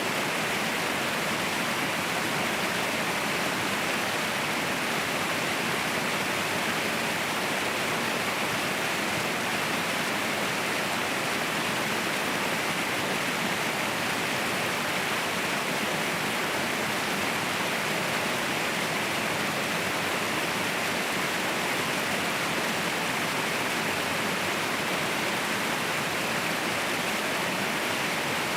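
Waterfall roaring: a steady, unbroken rush of falling water, bright and hissy with little deep rumble, unchanging throughout.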